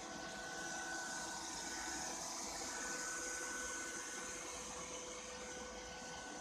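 Ropo Glass robot vacuum cleaner running steadily: an even whirring hiss from its suction fan and motor, with a few faint steady whines.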